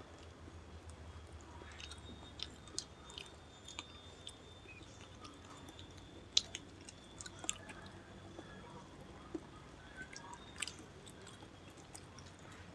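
Faint chewing with scattered small clicks and crunches from people eating quail meat.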